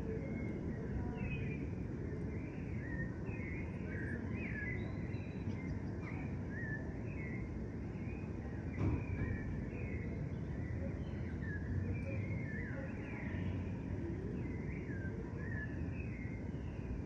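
Many small birds chirping continuously in short, quick, overlapping calls, over a steady low rumble. A single brief knock about nine seconds in.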